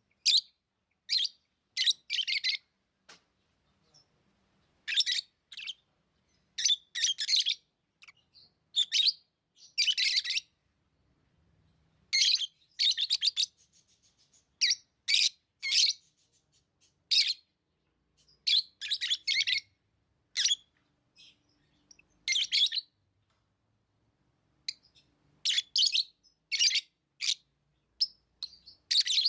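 Pet lovebirds chirping: high-pitched chirps in short clusters, with brief quiet gaps between them.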